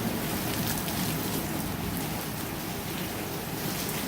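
Heavy thunderstorm rain blown sideways by strong wind, a steady dense hiss of rain pouring down.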